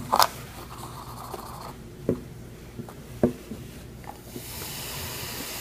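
A few light knocks as baking soda is tipped into a glass of vinegar. Then, from about four seconds in, a steady fizzing hiss as the baking soda and vinegar react and give off carbon dioxide bubbles.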